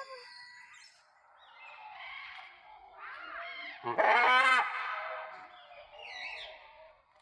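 Parrots calling: scattered squawks, with one loud, harsh squawk about four seconds in.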